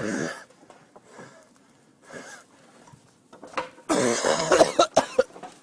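A person coughing in fits: a short cough at the start, a smaller one about two seconds in, and a longer, loud bout of hacking about four seconds in.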